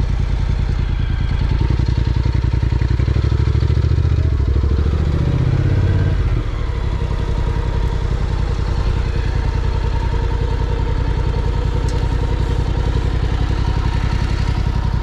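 Honda NC750X's parallel-twin engine running under way. The revs fall away about six seconds in, then it runs steadily at lower revs.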